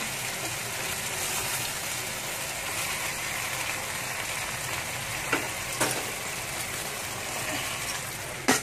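Chicken pieces frying in cincalok (fermented shrimp paste) in a wok over a high flame: a steady sizzle, with a few brief clicks about halfway through and near the end.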